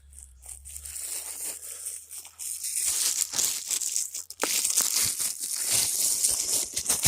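Rustling and crinkling handling noise with small crackles, faint at first and growing much louder about two and a half seconds in.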